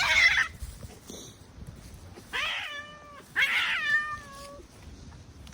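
Stray cat meowing: a call trailing off just after the start, then two drawn-out meows about a second apart, the second one longer.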